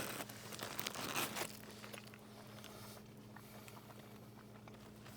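Paper or plastic food wrapper crinkling and rustling for about the first second and a half, then fainter handling noises over a steady low hum.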